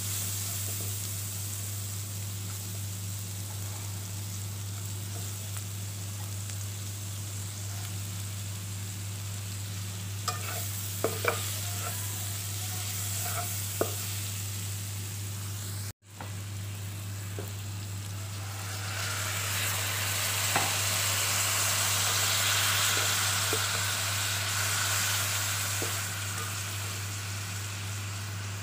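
Oil sizzling in a wok as shredded cabbage is stir-fried, with a few sharp clicks of the spatula against the pan. After a short break the sizzle comes back louder as battered vegetable fritters fry in the oil, over a steady low hum.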